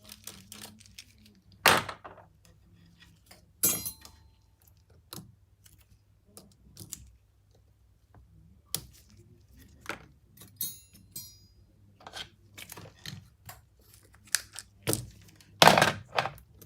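Small tools and parts being handled on a workbench: scattered clicks and knocks, a few louder thunks, and brief metallic rings as a tool is set down, over a faint steady low hum.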